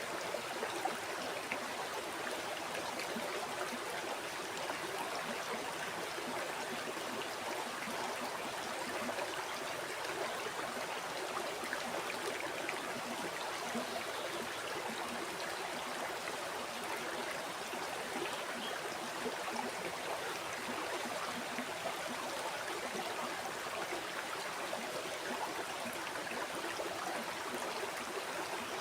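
A river or stream flowing steadily, water babbling and splashing over rocks in a continuous, even rush.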